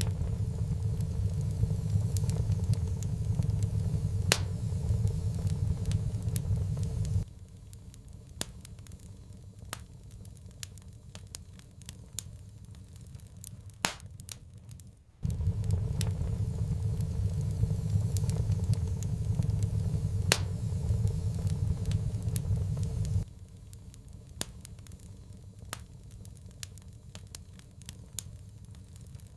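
Wood fire crackling with frequent sharp pops. A loud low rumble comes in over the crackling for the first seven seconds and again for about eight seconds in the middle, cutting off abruptly each time.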